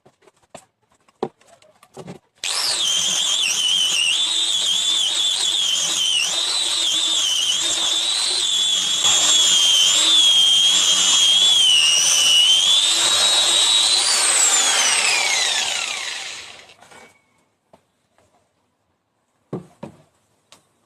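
A high-pitched electric power tool motor starts up about two seconds in and runs with a whine that wavers as it meets load. It is switched off near the end and winds down with a falling pitch. A few light clicks come before it starts.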